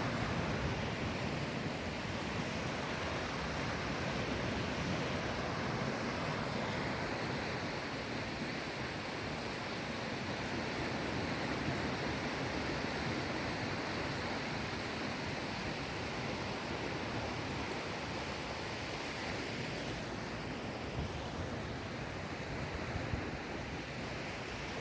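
Sea waves washing onto the shore: a steady, continuous surf sound.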